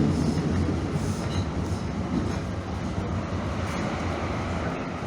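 Calgary CTrain light-rail car running along the track, heard from inside the car: a steady rumble that eases off gradually.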